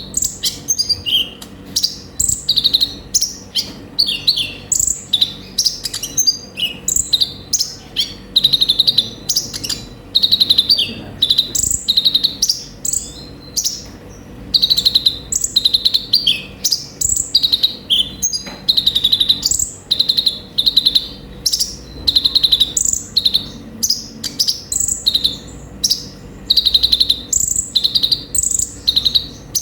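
Kolibri ninja sunbird singing: quick, high chirping phrases repeated about once a second without a break.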